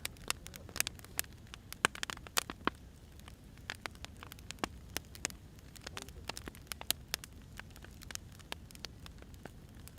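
Burning firewood crackling, with irregular sharp pops and snaps several times a second over a steady low rumble.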